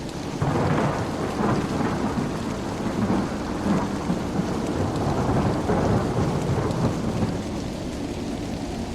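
Steady rain with a long roll of thunder that breaks in suddenly about half a second in, rumbles in several surges and dies away near the end.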